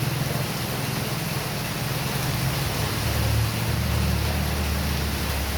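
Heavy rain falling in a steady, dense hiss, with a low rumble underneath that deepens about three seconds in.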